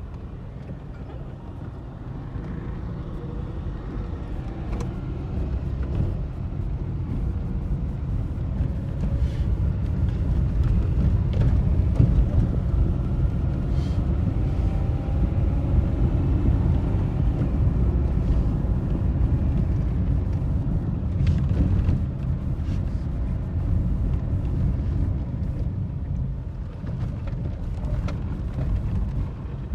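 A moving vehicle's low, steady rumble of engine and road noise, with a few faint clicks and rattles.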